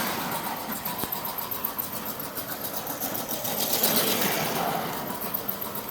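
Lionel toy electric train running around its track: the small motor whirring and the wheels ticking over the rail joints in a fast, even rhythm.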